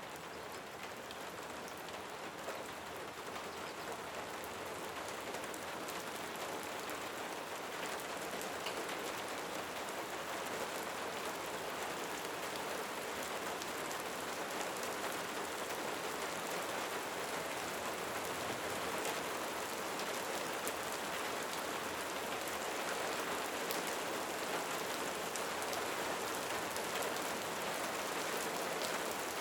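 Steady rain: an even hiss dotted with many small drop taps, swelling in over the first few seconds and then holding level.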